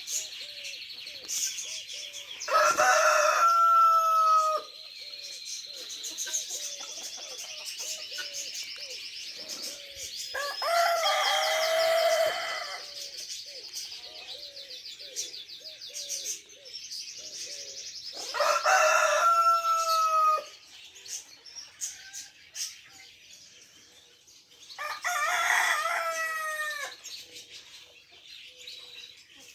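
A rooster crowing four times, each crow about two seconds long, over continuous high chirping of small birds and low, quick repeated clucking.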